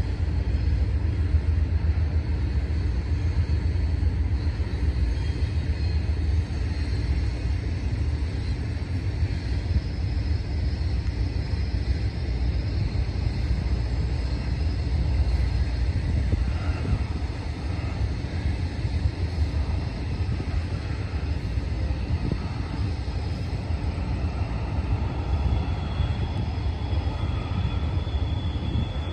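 Norfolk Southern freight train climbing the grade: a steady low rumble of diesel locomotives working and intermodal cars rolling.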